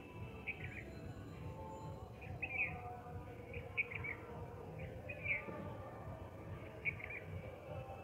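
A bird chirping, short high chirps repeated about once a second over a steady low background.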